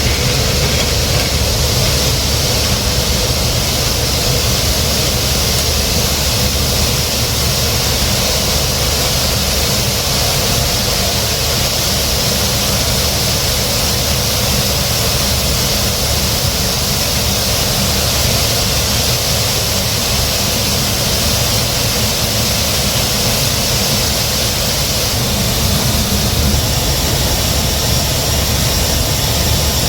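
Steady, unchanging drone of a diesel truck and grain-terminal machinery, with a constant hiss over it, while soybeans unload from a grain trailer's hopper.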